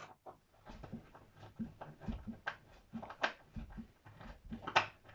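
Irregular light clicks, taps and knocks of objects being handled and fitted together, a few with a dull thud beneath, the loudest near the end.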